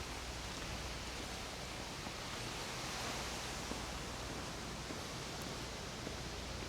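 Steady outdoor background noise, an even hiss with a low hum underneath, swelling slightly midway; no distinct sound stands out.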